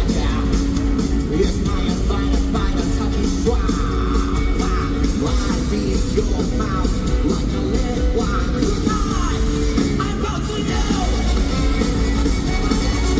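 A live band plays a funky rock song with a singer, recorded loud from the arena audience with a heavy low end.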